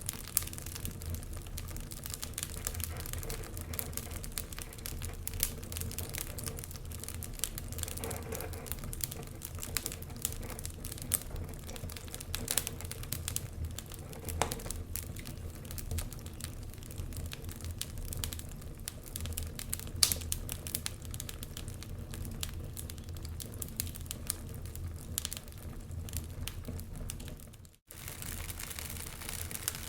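Wood fire crackling in a stone fireplace: many irregular sharp pops and snaps, the loudest about 20 seconds in, over a steady low rumble. The sound cuts out briefly near the end.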